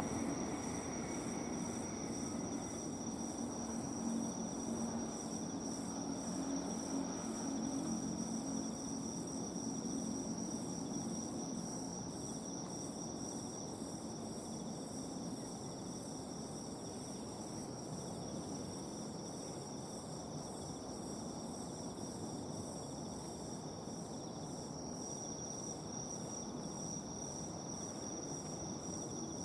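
Insects singing on a summer night: a steady high trill with a rapid, even pulsing chirp above it. A low rumble of passing vehicles fades out over the first ten seconds or so.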